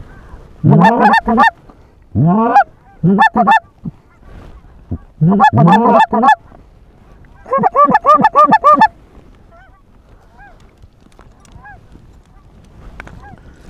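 Goose calling in fast bursts of short, loud clucks and honks, about five bursts that stop shortly before nine seconds in, blown on a handheld goose call to pull in approaching lesser geese. Fainter, more distant goose calls continue after that.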